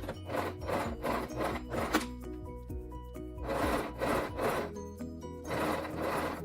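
Singer Esteem II electric sewing machine stitching hair wefts onto a wig cap in short starts and stops, with quick strokes at first and then longer runs, over background music.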